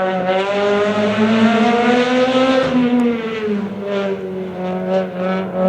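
Rally car engine at high revs as the car passes. Its note climbs for the first two and a half seconds, drops, then rises and falls again. A few sharp cracks come in the second half.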